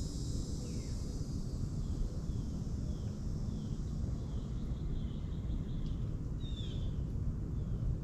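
A bird calling in a run of short, falling chirps, about two a second, loudest near the end, over a steady low rumble.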